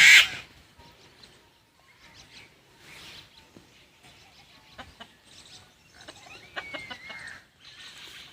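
Hens clucking, the loudest call right at the start and then fainter, scattered clucks, with a short wavering bird call about seven seconds in.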